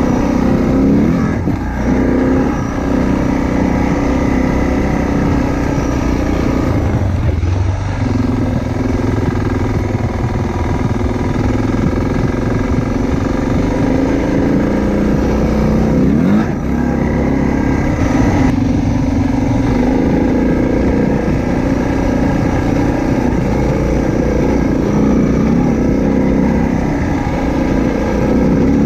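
Motorcycle engine running under way, with its note shifting and sweeping in pitch a few times as the rider changes speed and gear.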